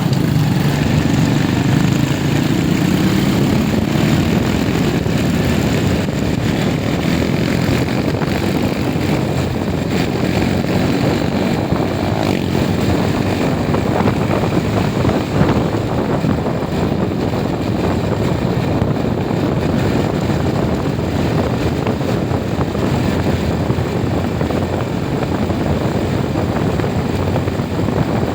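A vehicle's engine running steadily while on the move, its note rising over the first few seconds, with wind rushing over the microphone.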